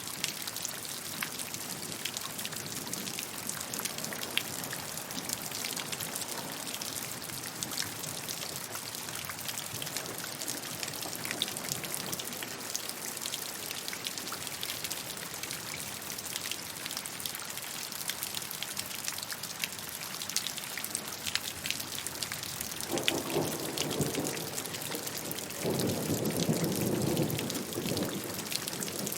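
Steady rain: a dense hiss of falling rain with many separate drops tapping on a surface. Near the end, two brief lower rumbles rise above the rain.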